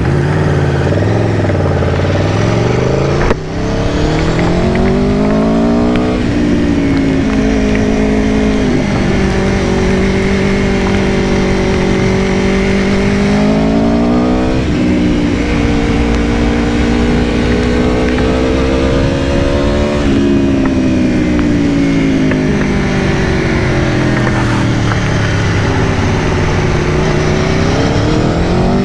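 Aprilia Tuono V4 Factory's V4 engine heard on board while riding. It pulls up through the gears with short breaks in the note at each shift, runs steadily, then the pitch falls as the bike slows and climbs again near the end as it accelerates.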